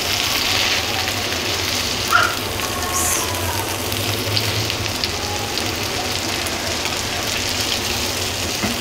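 Beef chapli kababs sizzling steadily as they shallow-fry in hot oil in a pan, with a few small crackles from the bubbling oil.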